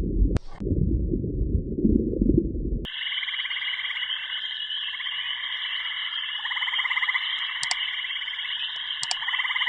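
A low rumbling sound that cuts off abruptly about three seconds in. It is replaced by a dense animal chorus: many calls trilling and pulsing together without a break.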